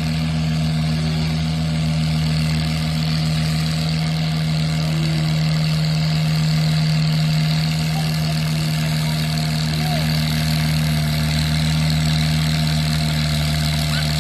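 Antique tractor engine idling steadily at one even speed, a low hum with a fine pulse and no revving.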